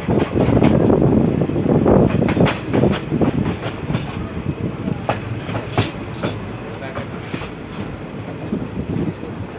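Janmabhoomi Express passenger coach running over the track, heard close from the side of the coach: wheels clattering over rail joints under a dense rumble. The noise is loud for the first few seconds, then eases off as the train slows into the station.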